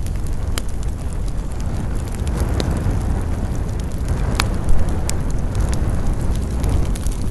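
Campfire burning with a steady low rumble and scattered sharp crackles and pops of the wood, the loudest pop a little past halfway.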